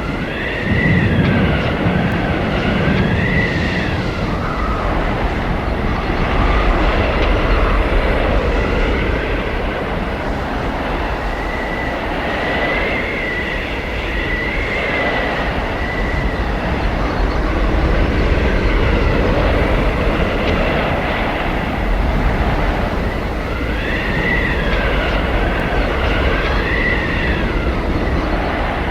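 Blizzard wind blowing hard: a dense rushing noise with a low rumble, and a high whistling howl that wavers up and down, coming and going three times.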